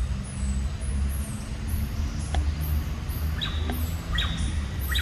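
Birds calling: high chirps repeating about twice a second, joined about three and a half seconds in by a louder, falling call that repeats every second or so. A steady low rumble sits underneath.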